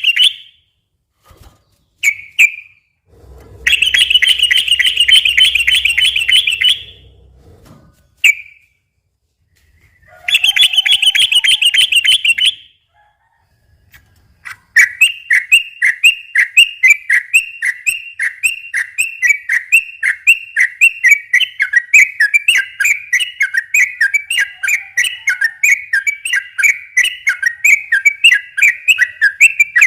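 Yellow-vented bulbul (trucukan) singing its fast rolling 'ropel' song: two bursts of rapid trilling, then from about halfway a long unbroken run of quick repeated notes. A low rumble sits under the first burst.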